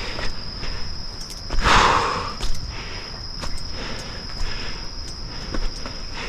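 Insects calling in one steady, high, unbroken tone, with a short rush of noise about two seconds in.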